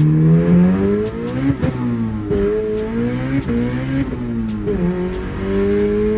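Turbocharged Honda CRX engine under hard acceleration in a first-gear pull, heard from inside the car. The engine note climbs and falls back sharply several times, and the driver says it briefly smacked the rev limiter.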